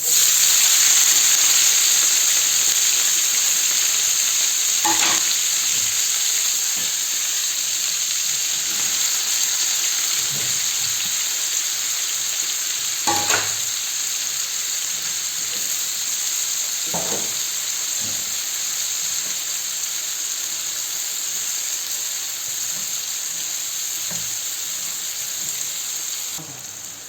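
Chopped green and red peppers dropped into hot oil in a frying pan, sizzling loudly at once and slowly easing off, with three brief scrapes as they are stirred.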